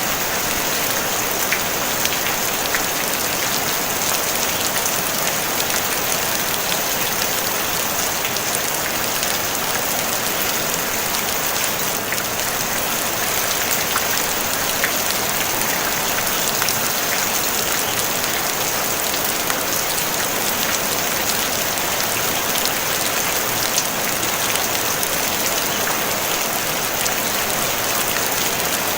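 Steady rain on a tin roof: an even hiss with scattered single drop ticks.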